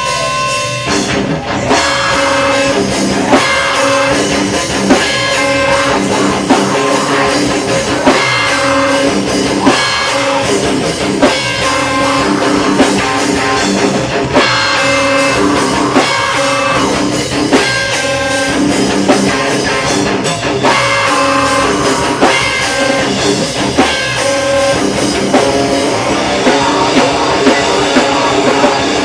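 Live heavy rock band playing loud, with electric guitars and a drum kit. A single held tone gives way to the full band coming in about a second in.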